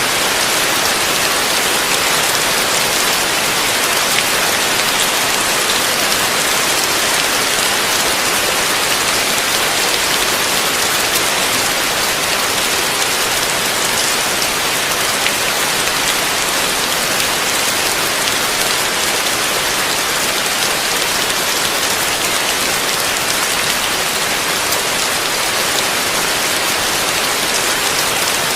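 Heavy rain falling steadily, a dense even hiss with fine scattered drop patter.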